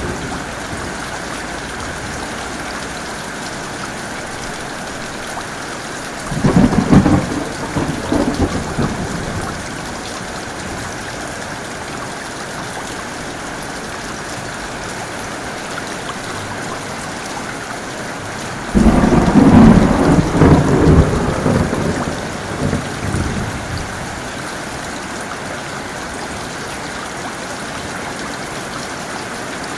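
Heavy rain falling steadily, with two thunder rumbles: a sudden crack about six seconds in that rolls for about three seconds, and a louder one near the twenty-second mark that rumbles for four to five seconds.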